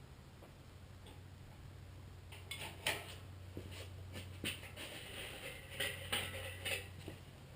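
Light metal clinking and clattering, a string of sharp knocks starting a couple of seconds in, over a steady low hum: metal parts and tools knocking together during an engine and transmission installation.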